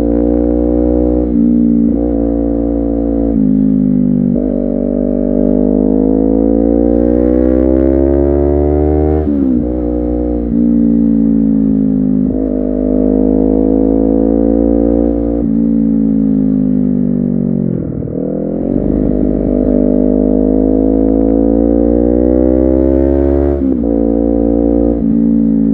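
Honda CBR250RR parallel-twin engine pulling under way. The revs climb steadily, then fall sharply at each gear change, several times over. About two-thirds of the way through, the revs dip lower and build back up.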